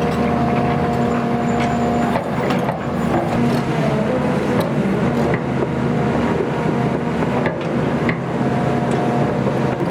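XCMG XE310GA excavator's diesel engine running steadily under work, with a steady whine that drops out about two seconds in and comes back near the end, and a few sharp knocks and clanks.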